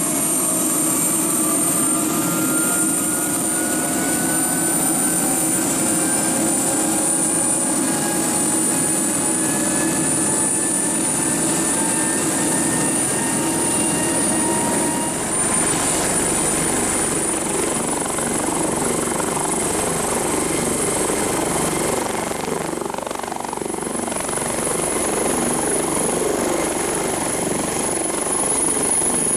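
Airbus Helicopters AS365N Dauphin twin-turbine helicopter in flight: a steady loud high turbine whine over the rotor noise, with several tones slowly rising in pitch during the first half, the sound growing noisier and rougher about halfway through.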